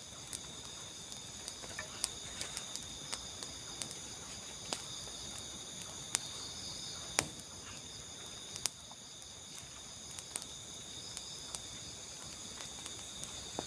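A steady, high-pitched chorus of insects such as crickets, with scattered sharp clicks and ticks at irregular intervals.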